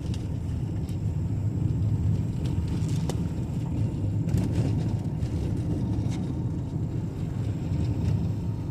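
Car driving along a road, a steady low road-and-engine rumble heard from inside the cabin, with a few faint clicks.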